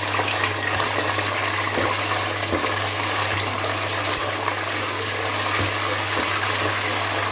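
Blended tomato and pepper paste frying in hot vegetable oil in a pot: a steady sizzle with many small crackles, over a low steady hum.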